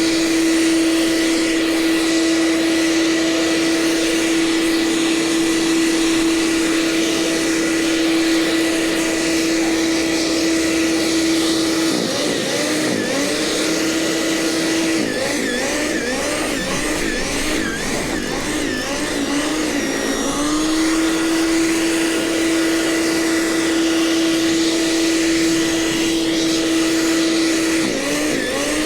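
Gasoline snowblower engine running at a steady, high pitch, the pitch dipping briefly about twelve seconds in, again for several seconds in the middle, and once near the end.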